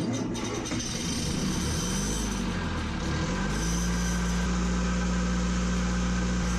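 A boat's engine starts up, its pitch wavering for a few seconds before it settles into a steady idle about three and a half seconds in.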